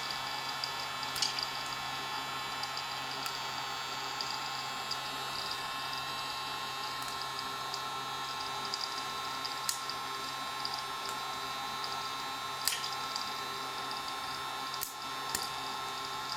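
Hot-air popcorn maker running steadily on test with its replaced motor and fan, a constant whirring hum with a high whine in it. Every second or two a short sharp pop stands out as kernels burst and hit the chamber.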